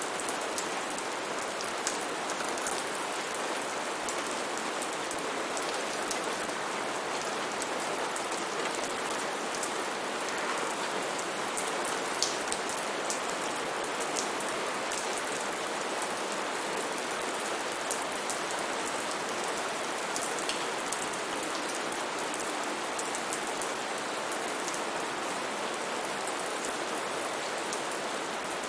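Steady rainfall with many individual drops pattering, an even rush with scattered sharp drip ticks throughout.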